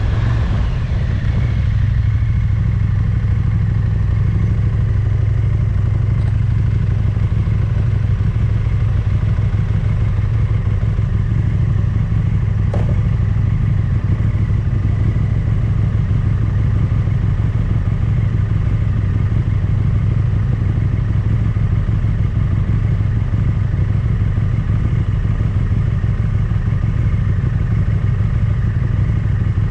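Motorcycle engine running at a steady speed while under way.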